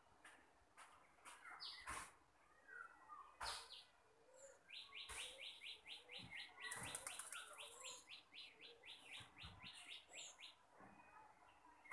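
Faint birdsong: short high chirps, and a run of quick repeated notes, about four a second, from about five to ten seconds in. A few faint taps and clicks fall between them.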